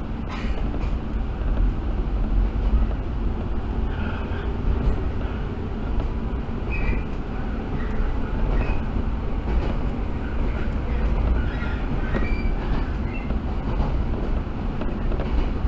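Onboard sound of a 115 series electric train running between stations: a steady low rumble of wheels on rail. A couple of sharp clicks come near the start, and short high squeaks are scattered through the middle.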